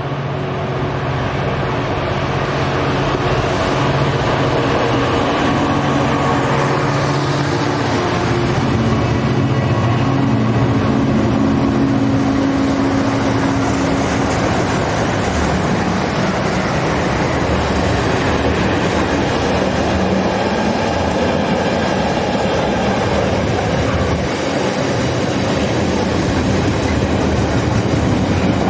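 Class 66 diesel locomotive's two-stroke V12 engine running as it hauls a container freight train past, growing louder over the first few seconds. Its engine note fades about halfway through into the steady rumble and clickety-clack of the container wagons rolling by.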